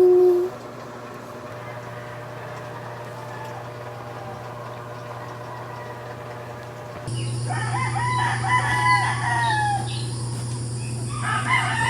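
A rooster crowing twice in the second half, long arched calls over a steady hum.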